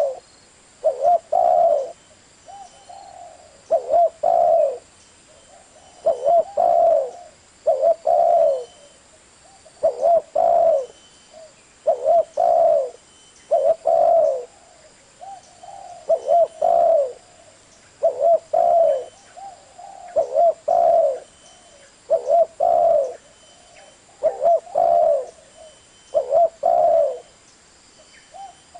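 Spotted dove cooing: the same short phrase of a few coos repeated about every two seconds.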